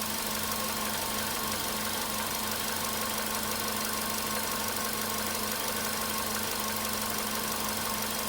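Volkswagen Polo Sedan engine idling steadily while warming up from a cold start, with a faint engine knock still just audible.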